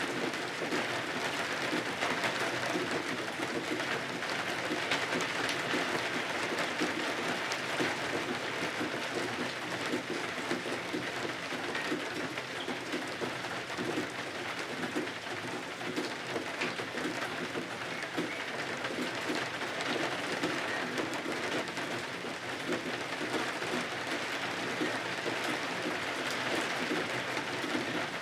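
Steady rain, an even hiss with fine patter.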